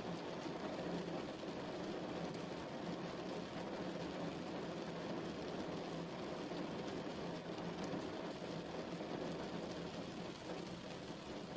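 Steady rain falling, a continuous even patter with a deep, full rush.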